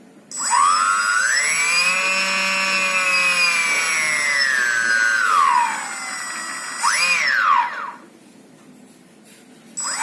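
Brushless table-fan motor whining as it speeds up and slows down: the pitch rises and holds for a few seconds, falls away, jumps up and down once more briefly, then stops.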